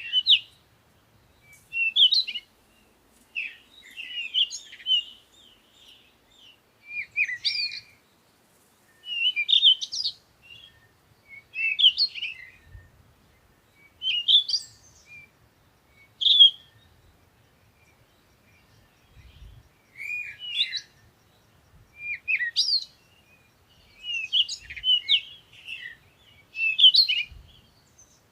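Songbirds singing at dawn: short, high, twittering phrases, each about a second long, repeating every one to two seconds with brief pauses between them.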